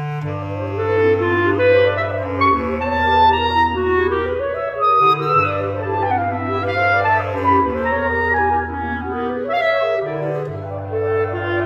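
Clarinet ensemble playing, several clarinets in moving lines over held low bass notes; the music comes in at once after a short hush.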